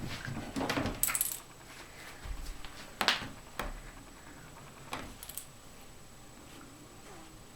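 A few scattered light metallic jingles and clicks, with the sharpest click about three seconds in.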